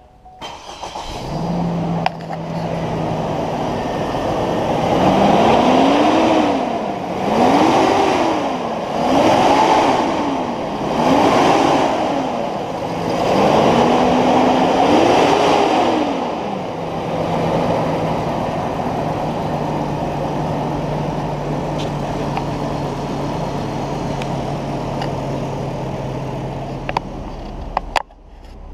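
2008 Hummer H3's 3.7-litre inline five-cylinder engine starting and idling. It is revved up and back down five times, then settles to a steady idle. The sound cuts off near the end.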